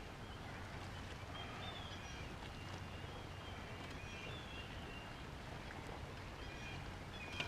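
Faint outdoor background with short, high chirps repeating every second or so over a low steady hum.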